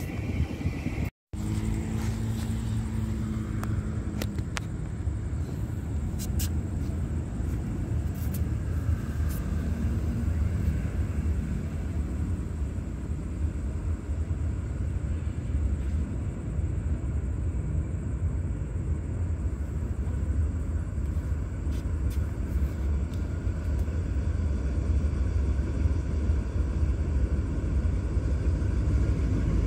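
Low, steady rumble of a diesel train approaching from a distance, growing a little louder toward the end. The sound drops out briefly about a second in.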